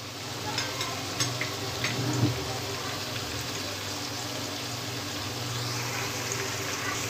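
Sliced onions and whole garam masala spices sizzling steadily in hot oil in a pan, with a few small crackles in the first two seconds.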